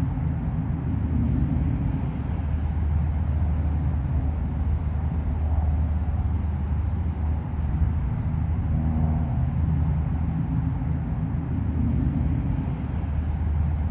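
Steady low mechanical hum and rumble, with several even low tones held throughout, like a nearby engine or machinery running.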